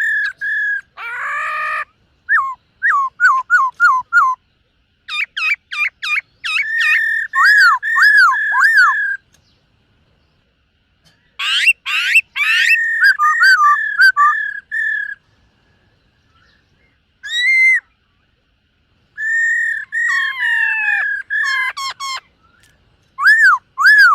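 Black-throated laughingthrush singing loudly: bouts of looping whistled notes and quick repeated phrases, with a harsh rasping note about a second in. The bouts are broken by pauses of a few seconds.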